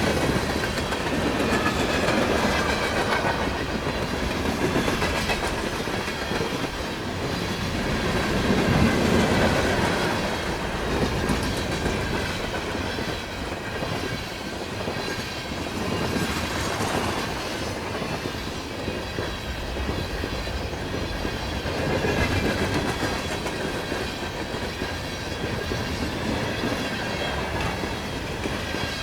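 CN freight train cars rolling steadily past, wheels clicking over the rail joints with a continuous rumble.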